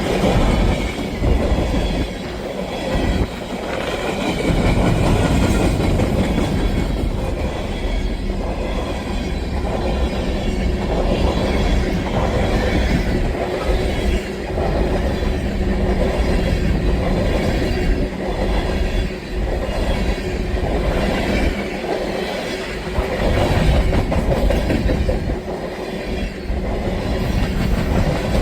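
Freight train passing close by, its cars rumbling and clattering over the rails in an uneven repeating rhythm.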